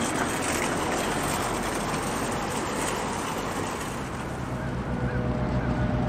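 Rushing, rumbling noise of a train rolling past on the rails. About four seconds in, the low, steady drone of a diesel locomotive engine comes up underneath.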